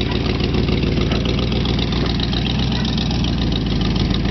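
1977 Corvette's V8 engine running steadily at low revs.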